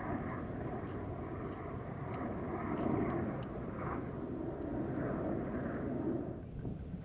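Steady outdoor background noise that swells and fades slowly, like a distant engine or traffic rumble, and drops away about six seconds in.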